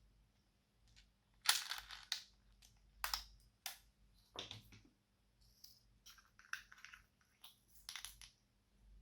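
Slime being squished and mixed by hand: a series of short sticky crackles and squelches, loudest about a second and a half in, with a run of smaller ones later.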